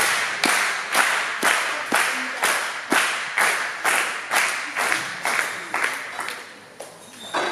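Crowd clapping in unison, about two claps a second, cheering a weightlifter on as his snatch attempt begins; the clapping fades out over the last couple of seconds.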